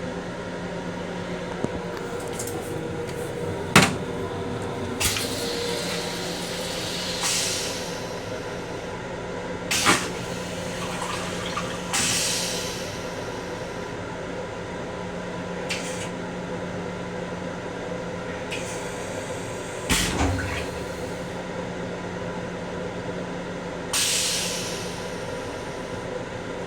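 Restroom fixtures of an M7 railcar being worked over the steady hum of the car: three sharp knocks and three short rushing bursts of water from the toilet flush and sink.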